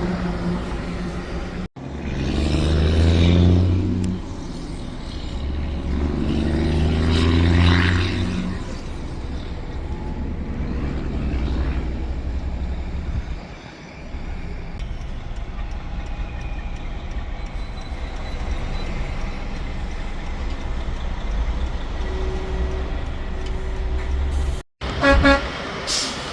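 Interstate traffic with tractor-trailers passing close by, two big pass-bys whose engine and tyre note drops in pitch as each goes past, then a steady traffic drone. A truck's air horn is just ending at the start, and the sound cuts out briefly twice.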